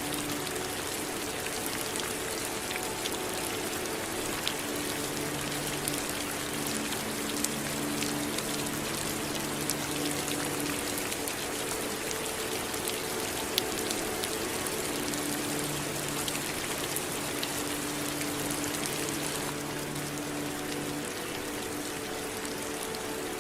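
Steady rain falling, with sharp individual drops clicking out of the even hiss. Soft low sustained tones drift in and out underneath.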